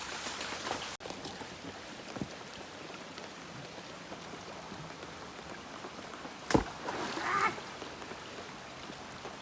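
Steady rush of flowing floodwater from melting snow, with one sharp knock about six and a half seconds in.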